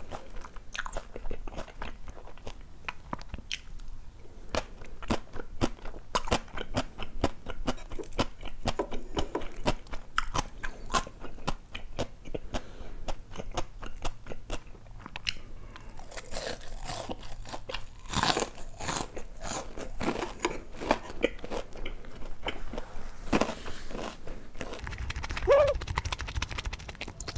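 Close-miked chewing of crispy breaded, deep-fried cheese pork cutlet: dense, irregular crunches and crackles as the coating is bitten and chewed.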